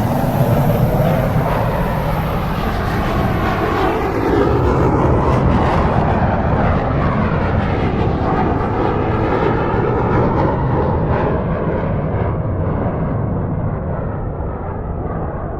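Aircraft passing overhead: a loud, steady rushing noise with a slowly sweeping, phasing tone, its hiss dying away over the last several seconds as it recedes.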